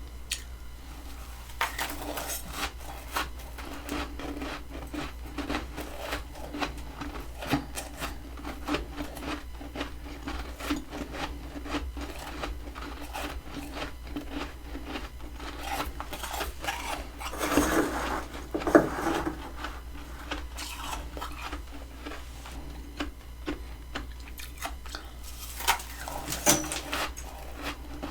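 Freezer frost crunching and scraping in a dense series of crisp crackles, with louder crunches a little past halfway and again near the end.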